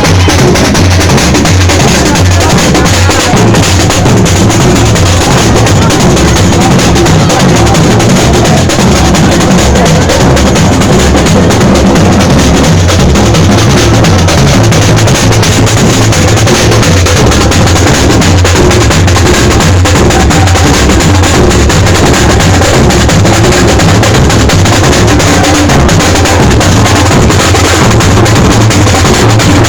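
A carnival percussion band playing a steady, driving drum beat with a heavy bass drum pulse, very loud throughout.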